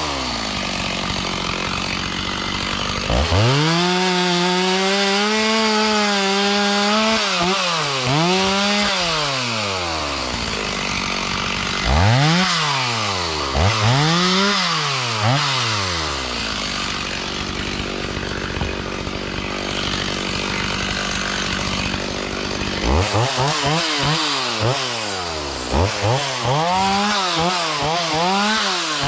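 Chainsaw engine revved up and down again and again, held at full throttle for a few seconds, then given quick bursts, dropping back to a lower steady run in between, with a fast series of throttle bursts near the end.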